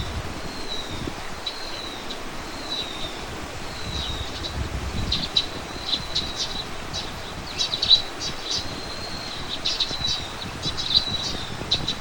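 Birdsong: a bird repeats a short, falling high note about every two-thirds of a second. From about five seconds in, this gives way to busier chirping with quick, clicky notes. A faint low rumble runs underneath.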